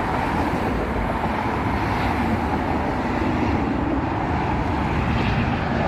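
Jet airliner coming in to land, a steady engine noise that holds level, mixed with street traffic.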